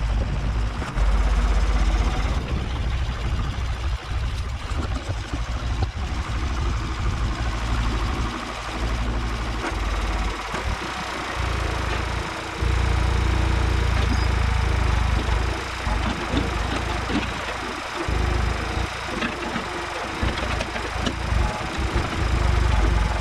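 Ford tractor-loader-backhoe's engine running while the hoe digs, its loudness rising and falling as the load changes.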